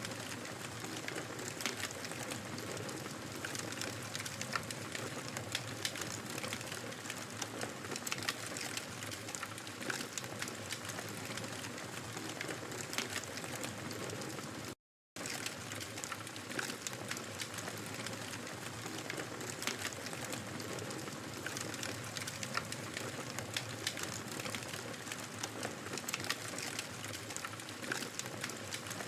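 Wood fire crackling in a fireplace: many small pops and snaps over an even hiss. The sound drops out completely for a split second about halfway through.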